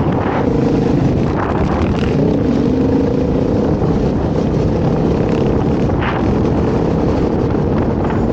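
Dirt bike engine running at a steady speed under way, with wind noise buffeting the microphone.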